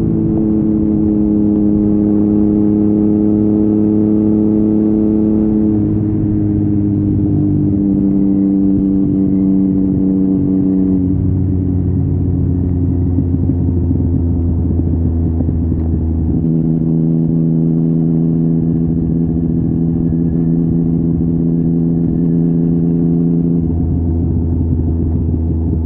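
A Yamaha MT-09's three-cylinder engine running through an Akrapovic exhaust while the bike cruises, the engine note holding fairly steady and easing gradually lower, with a few small shifts in pitch.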